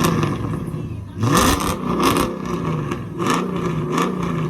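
Vehicle engine revving: its pitch climbs sharply about a second in, then it runs on with smaller rises and falls.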